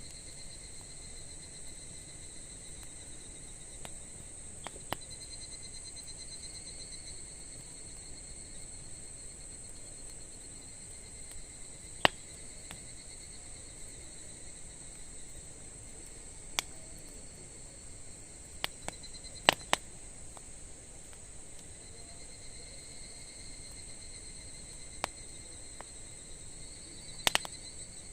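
Crickets trilling steadily in the background, with a handful of sharp pops from burning wood in a campfire, the loudest about twelve seconds in, near twenty seconds and near the end.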